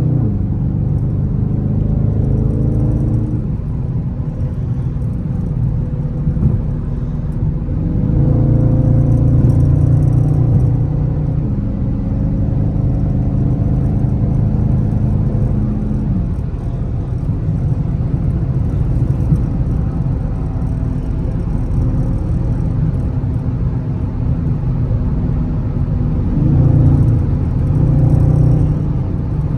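Dodge Charger Scat Pack's 6.4-litre HEMI V8 running while driving, its note climbing as it accelerates and dropping at each gear change, with louder pulls about eight seconds in and again near the end.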